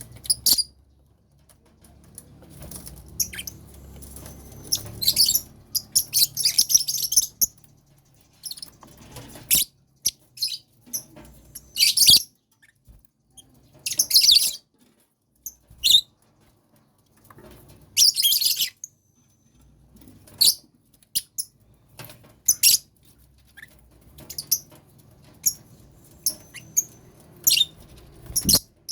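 Lovebirds in a colony cage giving short, shrill chirps in scattered bursts, with a few sharp clicks among them.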